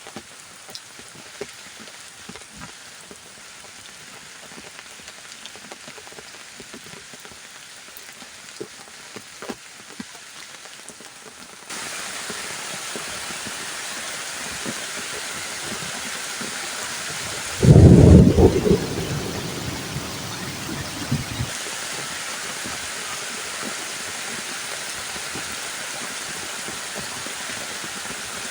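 Heavy tropical rain falling, with scattered drips. It turns suddenly louder about twelve seconds in. A loud clap of thunder comes about eighteen seconds in and rumbles away over a few seconds.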